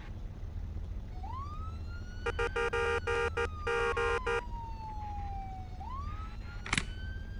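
Police car siren wailing, slowly rising and falling twice, with a run of rapid horn blasts about two seconds in. A steady engine and road rumble runs beneath, and there is one sharp click near the end.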